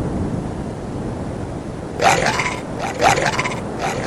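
Steady rush of a waterfall, broken about halfway through by three short, loud voice-like calls, one after another about a second apart.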